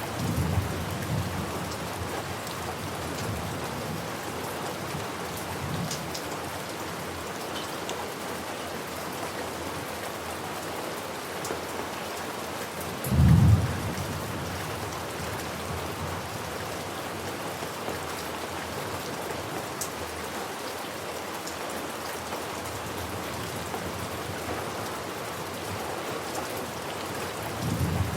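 Steady rain falling, with thunder: a low rumble at the start, a short loud crack of thunder about halfway through, and another rumble near the end.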